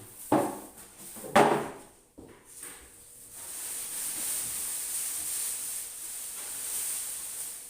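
Two sharp knocks about a second apart, then a steady hiss that sets in about three and a half seconds in and runs on.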